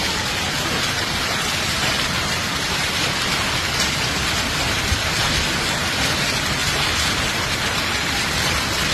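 Heavy rain pouring down in a dense, steady hiss, with an occasional sharper hit.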